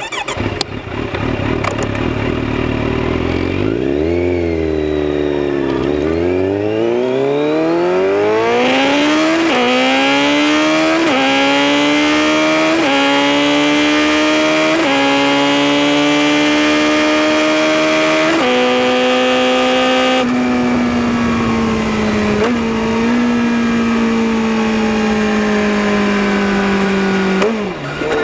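Kawasaki Z900RS inline-four through a Holeshot Lextek aftermarket header, heard from under the seat: the engine pulls hard up through the gears, its note climbing and dropping back at each of several quick upshifts, then settles to a steady cruise with the pitch slowly falling.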